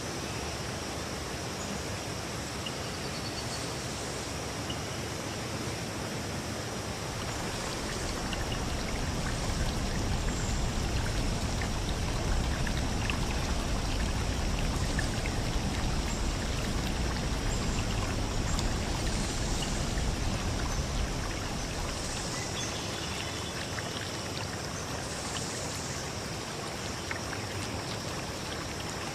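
River stream rushing and babbling over rocks in a steady, even wash; the low rumble swells louder for a stretch in the middle, then settles back.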